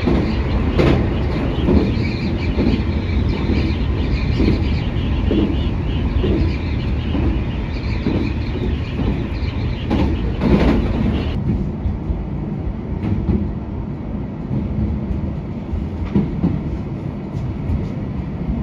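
Running noise of a JR Hokkaido local train heard from inside the car: a steady low rumble with wheels clicking regularly over rail joints. About eleven seconds in, the higher running noise drops away sharply and it goes quieter as the train slows into a station.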